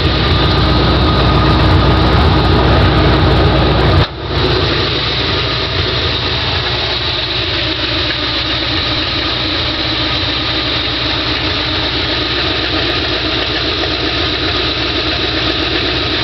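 Ford 351 Windsor V8 running through open headers with no mufflers, a loud, deep exhaust note. It runs louder for about four seconds, dips sharply, then settles into a steady idle.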